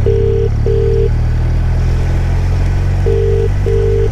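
UK-style telephone ringing tone heard in a helmet intercom headset: a double beep, a pause of about two seconds, then a second double beep while the call waits to be answered. Under it runs the steady low drone of the moving motorcycle.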